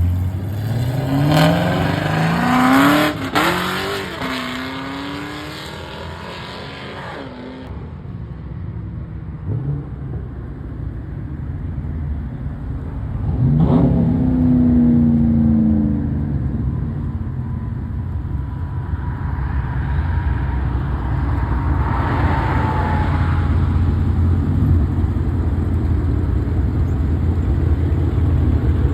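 Car engines revving hard and accelerating, the pitch climbing over the first few seconds before dropping off sharply. A second burst of revs comes about fourteen seconds in, then a steady low engine rumble.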